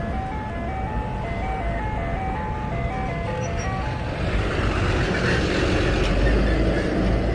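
A simple chiming tune of short single notes, stepping up and down, plays over steady wind and road noise. From about four seconds in, a louder rush of noise swells up.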